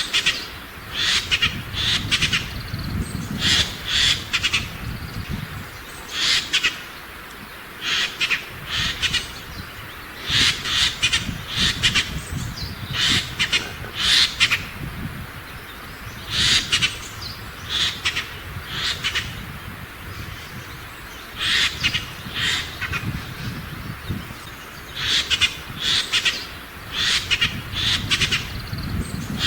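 Eurasian jay giving harsh, rasping screeches in clusters of two to four calls, repeated every couple of seconds.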